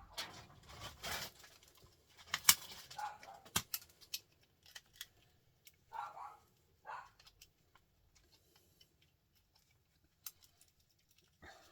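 Hand-dismantling a small printer motor: metal clicks, knocks and scraping as its parts are pried and pulled apart, with one sharp loud click about two and a half seconds in. Two short, softer sounds come at about six and seven seconds.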